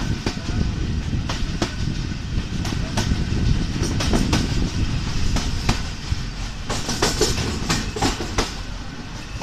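Pakistan Railways passenger coach running along the track, heard from aboard: a steady low rumble with irregular sharp wheel clicks on the rails, coming closer together near the end.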